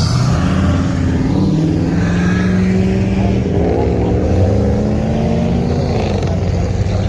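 Car engine running loudly, revving up about halfway through and dropping back near the end.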